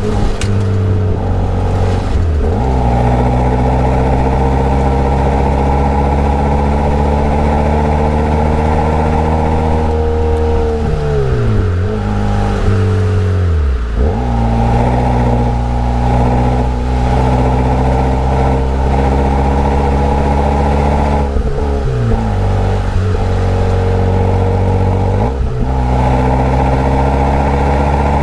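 Daihatsu Copen L880K's turbocharged 660 cc inline-four engine and exhaust pulling hard, the note climbing steadily in pitch and then dropping sharply several times at gear changes. The audio is sped up.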